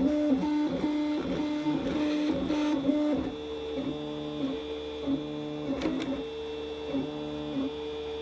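An i3-style 3D printer's stepper motors are whining as the print head moves rapidly back and forth. Their tones jump between pitches several times a second. About three seconds in, the pattern shifts to different pitches and turns a little quieter, and a single click comes near the end.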